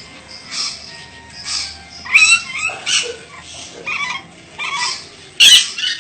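Ornate lorikeet giving a run of short, high-pitched, scratchy calls and chatter, the loudest squawks about two seconds in and again near the end.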